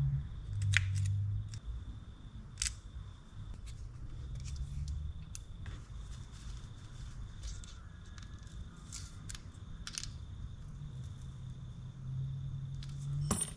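Scattered light clicks and ticks of small metal fishing-reel parts being handled, over a low steady hum.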